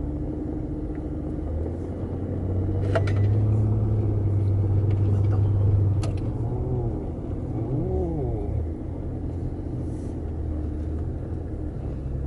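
Steady low drone of a car's engine and road noise, swelling louder from about three to six seconds in, with a couple of sharp clicks.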